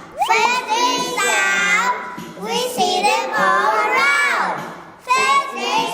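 Young children singing a phonics song together, one sung phrase after another, with a long falling slide in pitch about four seconds in.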